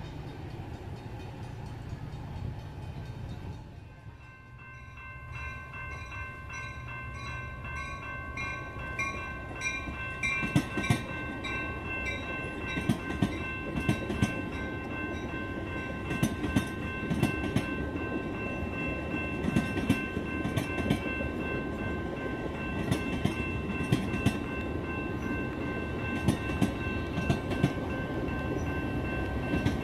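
Metra commuter trains: first the low rumble of a train pulling away, then a train of bilevel gallery cars rolling past with wheels clicking over rail joints. Steady high ringing tones run under it from about four seconds in, as from a grade-crossing warning bell.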